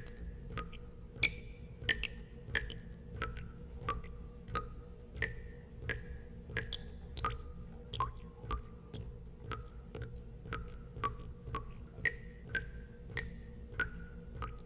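Water drops falling into water, each a sharp plink with a short ringing tone, just under two a second at uneven intervals, over a steady low hum.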